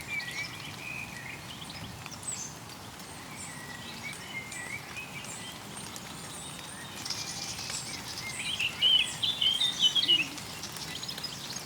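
A stream flowing steadily, with birds chirping over it; a quick run of loud chirps comes near the end.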